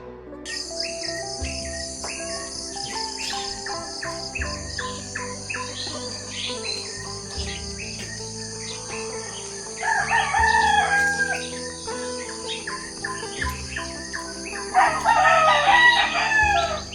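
Small birds chirping over a steady high insect drone, with a rooster crowing twice; each crow is the loudest sound and lasts under two seconds. Faint background music with held low notes runs underneath.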